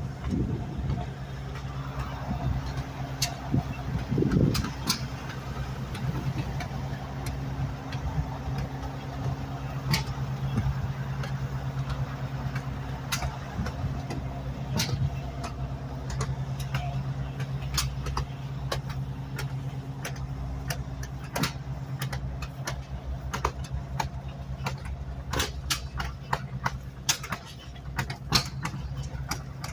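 An engine running steadily at a constant speed, with scattered sharp clicks over it that grow more frequent in the second half.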